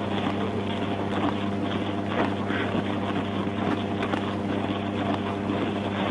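A vehicle engine idling with a steady low hum, under faint background voices.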